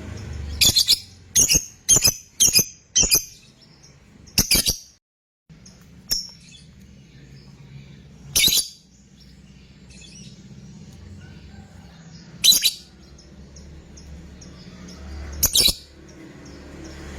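Lovebird giving short, shrill calls: a quick run of about five in the first three seconds, then single calls every few seconds, over a faint low hum.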